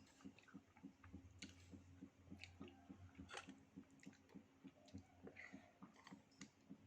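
Soft chewing and wet mouth clicks from someone eating durian with mung-bean porridge, heard close up over a faint low hum.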